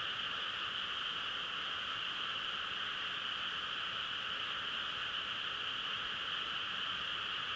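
A steady chorus of frogs calling, heard as one even, continuous din in which no single call stands out.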